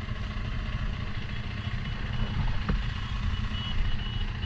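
Motorcycle engine running while riding, under a steady low rumble of wind and road noise, with a single sharp click about two-thirds of the way through.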